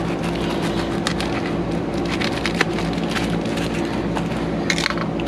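Central air conditioner condenser unit running with a steady hum. Scattered crackles and clicks over it come from a self-sealing foam pipe-insulation tube being handled.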